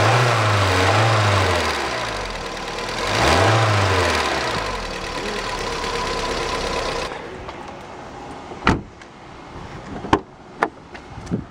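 Loud car mechanical noise with two rising-and-falling swells in pitch. About seven seconds in it cuts to a quieter background with a few sharp clicks.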